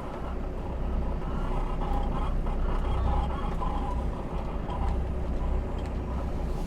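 Heavy diesel truck running, a steady low rumble.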